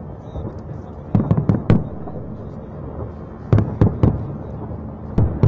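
Aerial firework shells bursting over a low rumble: a cluster of sharp bangs just over a second in, another around three and a half seconds in, and a dense barrage of bangs starting at the very end.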